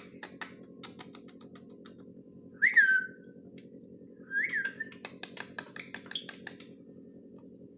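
A pet ringneck parrot gives three short whistles, each rising then falling in pitch, about 3, 4.5 and 6 seconds in, the first the loudest, among scattered light clicks.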